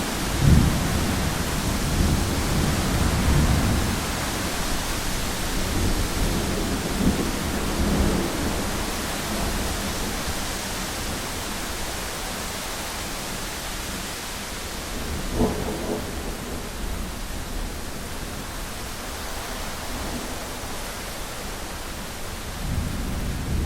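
Heavy rain pattering on a window with a steady hiss, and thunder rumbling low over the first several seconds, then again briefly about fifteen seconds in.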